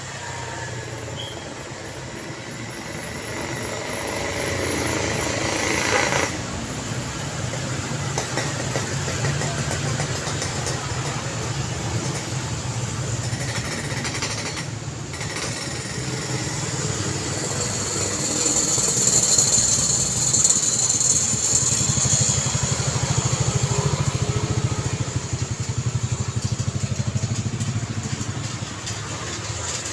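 Busy road traffic: a continuous rumble of vehicle engines and tyre noise as vehicles pass. A sharp noise comes about six seconds in, and the traffic is loudest for a few seconds just before the middle of the second half, as a vehicle goes by close.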